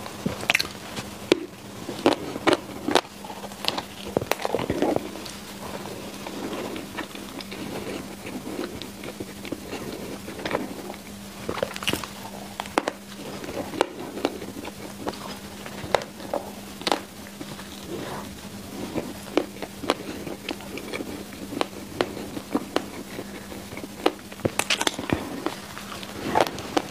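Close-miked chewing of a soft sausage bread roll: wet mouth clicks and smacks at irregular intervals, over a faint steady hum.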